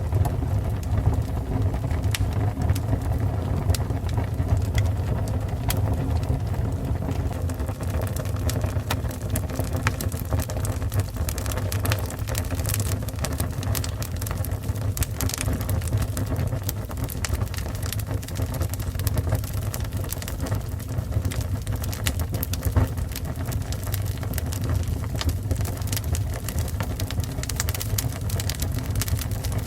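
Fire burning steadily: a low continuous roar with frequent sharp, irregular crackles and pops.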